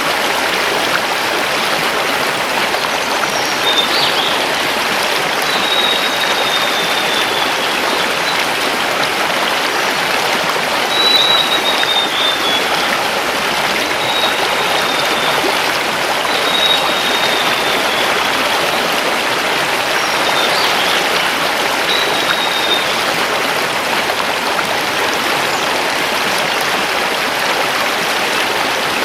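Mountain river flowing over stones, a steady rushing of water. Several short, thin, high bird calls fall slightly in pitch, spread from about three seconds in to about two-thirds of the way through.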